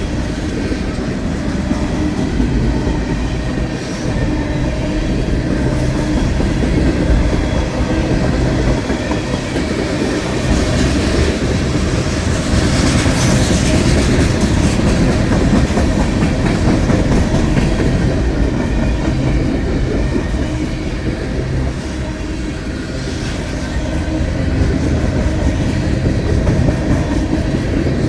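BNSF freight train's cars rolling steadily past, the wheels clattering over the rail joints. A short, brighter high-pitched rush is heard around the middle.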